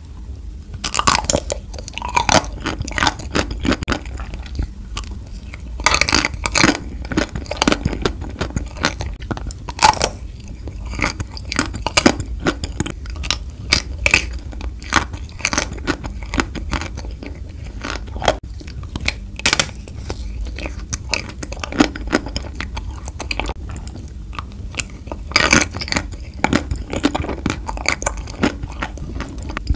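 Close-miked chewing and biting of a chocolate-coated Tico, with dense, irregular crunching and crackling throughout.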